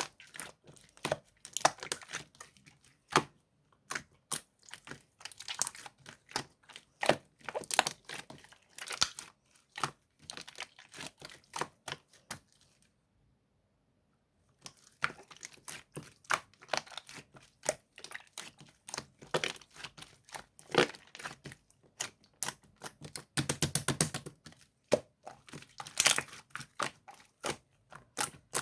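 Hand-played slime being squeezed, stretched and pressed, giving rapid sticky clicks and pops, with a pause of about two seconds midway.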